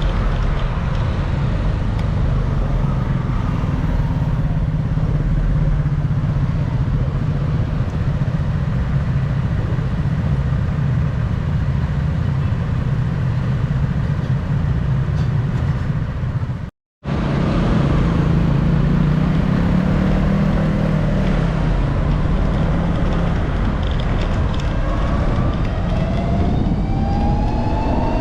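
Riding in traffic: wind rushing over the microphone with steady engine and road noise. The sound cuts out for a moment about two-thirds through, and near the end an engine revs up, its pitch rising steadily.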